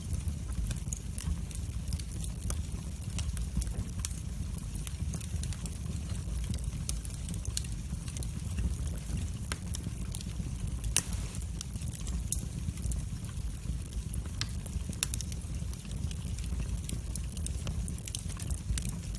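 Wood fire burning in a fireplace: a steady low rumble of the flames with irregular sharp crackles and pops throughout, one louder pop about halfway through.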